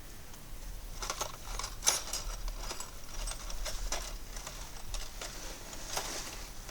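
Scattered light clicks and rustles, with a sharper click about two seconds in.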